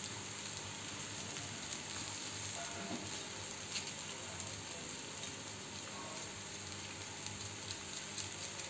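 Vegetable Maggi noodles sizzling steadily as they fry in oil in a metal kadai, with a few faint clicks of a metal spatula against the pan.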